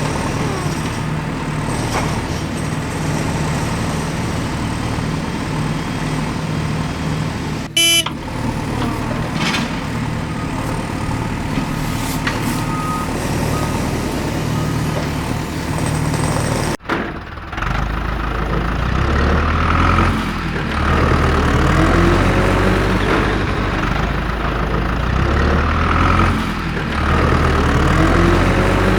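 Heavy machine engines running. One engine runs steadily, with a short sharp burst about 8 seconds in. Then, after an abrupt cut about 17 seconds in, a deeper engine revs up and down again and again, as if working under load.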